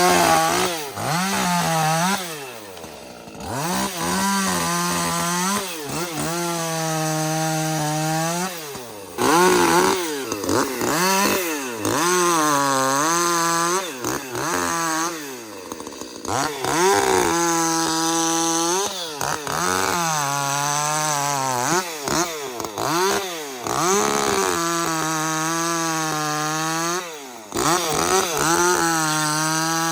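Ported Echo CS-310 30cc chainsaw throttled up again and again, held at high revs for a few seconds at a time while cutting, and dropping back between cuts.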